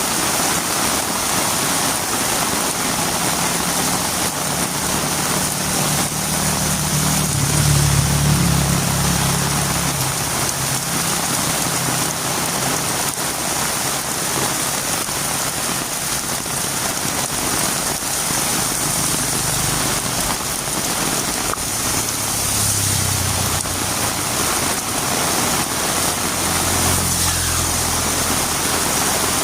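Heavy rain falling steadily, with a low engine hum that builds, peaks about eight seconds in and fades, as of a vehicle passing; fainter engine hums come back twice near the end.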